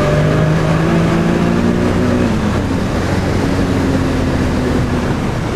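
Nissan 300ZX twin-turbo V6 (VG30DETT) running under way, its engine note easing down in pitch over the first couple of seconds and then holding fairly steady.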